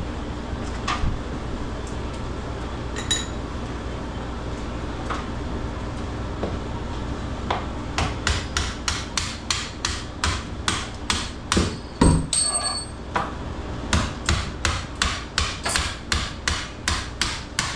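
Hammer striking metal on metal to drive bolts out of a meat-hanging rail. A few scattered taps come first. About eight seconds in, steady blows start at about three a second, and one heavier blow a little later rings on briefly.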